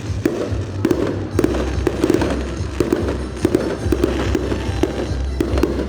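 Fireworks display: a rapid, irregular string of sharp bangs and crackles from bursting aerial shells, several a second, over a steady low rumble.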